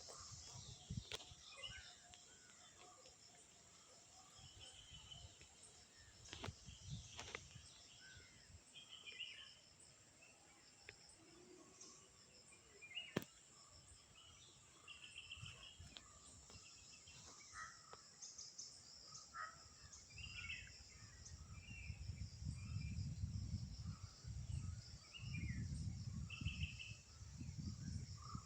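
Outdoor nature ambience: scattered short bird chirps over a steady high insect drone, with a few sharp clicks and a low rumble in the last several seconds.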